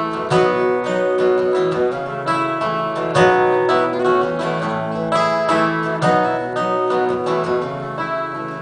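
Acoustic guitar strummed through an instrumental break between sung lines, chords ringing steadily.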